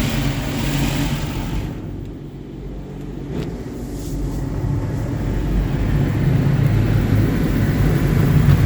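Touch-free automatic car wash running, heard from inside the car: a hiss of water spray on the body that dies away about two seconds in, over a steady low hum of the wash machinery that swells toward the end.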